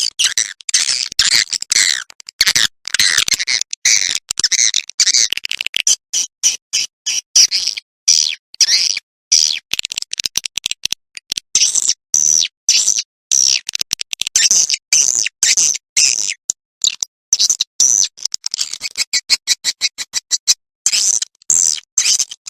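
Swiftlet twittering: a fast, unbroken run of short high chirps and trills, chopped by frequent brief gaps. It is a recorded swiftlet roosting call ('suara inap') played as a lure to draw swiftlets into a nesting house.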